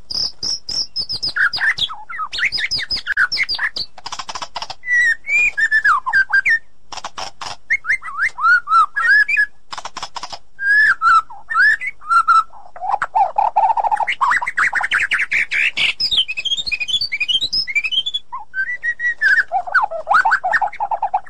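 White-rumped shama singing a varied song of clear gliding whistled phrases mixed with fast rattling trills, each phrase different from the last. The first second or so holds a high pulsed buzz like a cricket.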